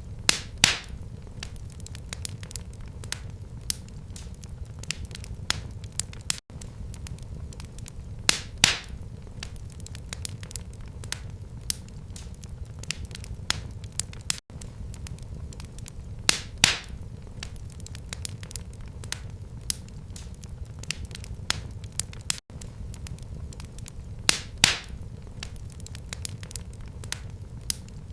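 Wood fire burning in a fireplace, crackling with a steady run of small snaps over a low rumble, and a louder pop about every eight seconds.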